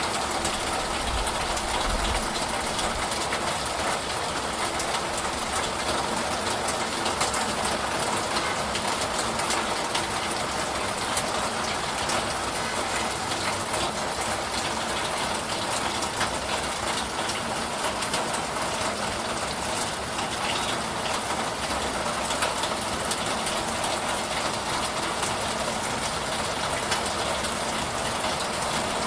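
Steady rain falling: an even, unbroken hiss dotted with fine ticks of individual drops.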